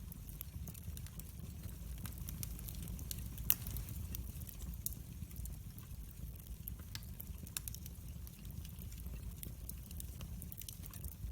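Wood fire in a fireplace crackling, with scattered sharp pops over a steady low rumble of the flames; one louder pop about a third of the way in.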